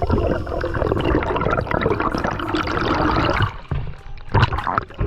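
Water churning and gurgling close around the microphone, as when a camera is in or under the sea while diving. The noise dips about three and a half seconds in, then surges briefly near the end.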